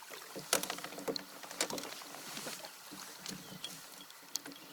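Irregular splashing and sharp knocks of water and gear at the side of a fishing kayak as a hooked smallmouth bass is lifted up to the boat, the loudest splash about half a second in.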